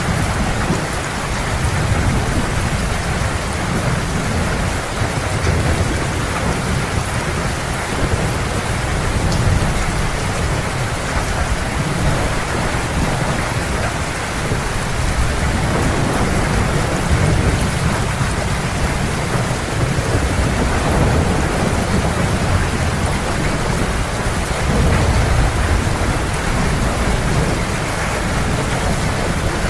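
Heavy rain pouring steadily, with low thunder rumbling underneath, swelling and fading.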